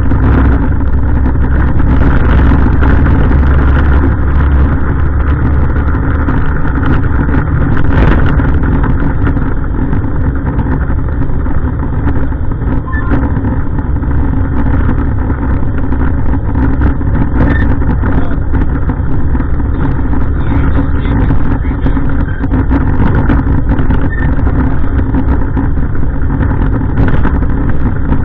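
Heavy diesel refuse truck engine running steadily with a deep rumble; the lowest part of the rumble eases a little about four to five seconds in.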